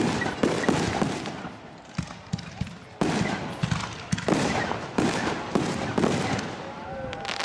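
Fireworks display: aerial shells bursting one after another with sharp bangs and crackling, several loud reports about a second apart in the second half.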